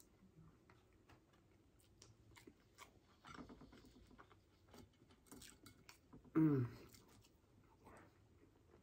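Quiet eating: soft chewing of French fries and light handling of a cardboard fry carton, with scattered small clicks. About six and a half seconds in, a short vocal sound falling in pitch, like a brief 'mm'.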